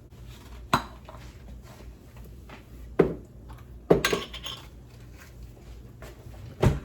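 Kitchen clatter: four separate sharp knocks and clinks of kitchenware, spread over several seconds, against a low steady hum.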